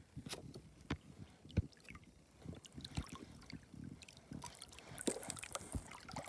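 Water sloshing and trickling as a small toy boat is pushed through water by hand, with scattered light knocks and clicks.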